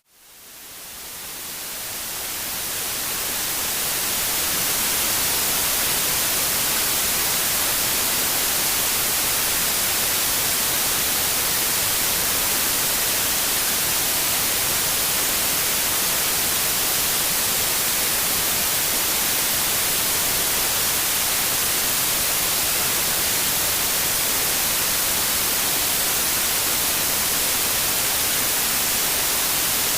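Synthetic white noise: a steady, even hiss, brightest in the treble. It fades up from near silence over the first four or five seconds, then holds level.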